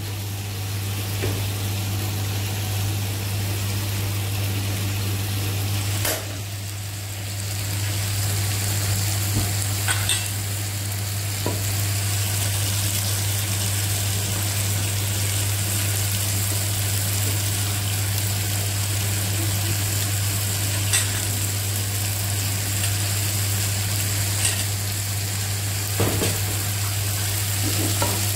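Raw chicken pieces sizzling as they fry in hot oil and tomato paste in a nonstick pan, over a steady low hum, with a few light knocks.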